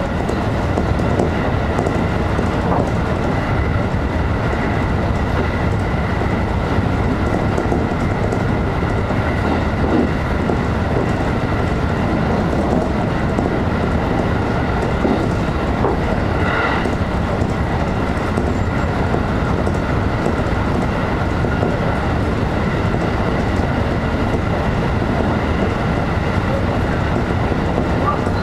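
JR electric train running at speed, heard from inside the front car: steady rolling noise of wheels on the rails with a faint steady whine, and a brief higher note about two-thirds of the way in.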